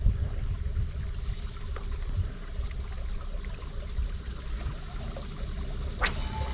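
Water lapping and sloshing against a fishing boat's hull, with a faint steady hum underneath. A single sharp click comes about six seconds in.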